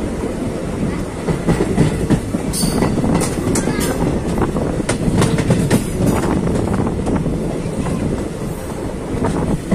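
Passenger train coaches running along the track, heard close up from an open coach door: a steady rumble with the wheels clattering over the track in many sharp clicks and knocks, thickest in the first six seconds or so.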